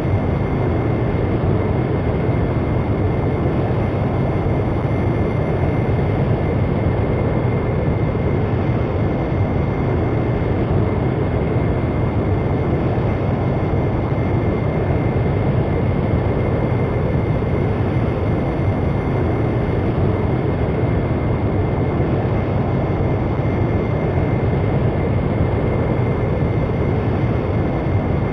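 A large aircraft's engines running steadily: an even, unchanging rushing noise with a thin steady high whine.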